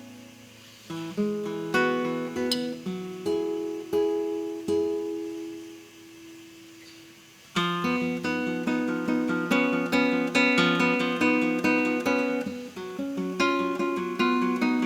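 Solo acoustic guitar played live: a slow phrase of single plucked notes that ring and die away into a fading held note, then about halfway through a louder, busier passage of quickly repeated notes.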